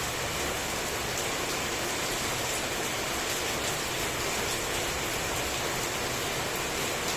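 Heavy tropical rain falling steadily and evenly, with a close patter of drops hitting surfaces.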